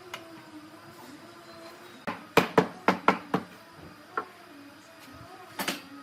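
Sharp knocks in a woodworking shop: a quick run of about six a little past two seconds in, one more around four seconds, and a double knock near the end, over a faint steady hum.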